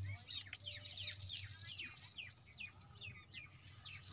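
A bird calling a quick series of about a dozen short chirps, each falling in pitch, about three a second, over a low steady hum.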